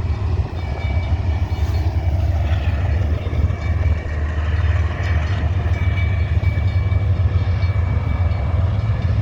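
CN freight train rolling through a railroad crossing: a steady low rumble, with a faint high thin tone that comes and goes.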